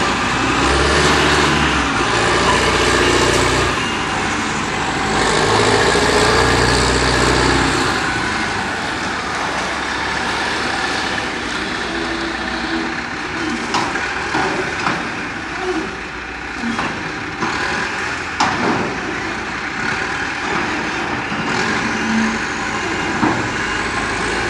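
Heavy work-vehicle engine, a payloader or dump truck, running up loudly twice in the first eight seconds, then settling to a lower steady run with scattered short knocks and clunks.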